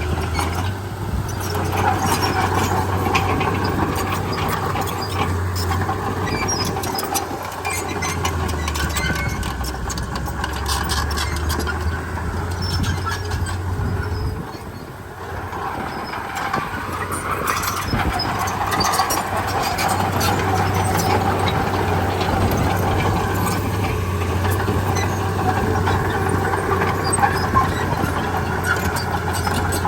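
Komatsu D31P bulldozer working: its diesel engine runs steadily under load while the steel tracks squeal and clatter. The engine eases off for a moment about halfway through, then picks up again.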